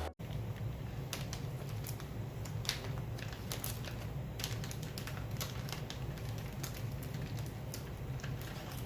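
Irregular light clicks and taps of small hard objects being handled, over a low steady hum.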